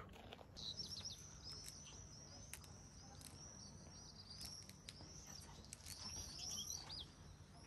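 Faint, high-pitched chirping of small birds, many short calls in quick succession overlapping one another, starting about half a second in.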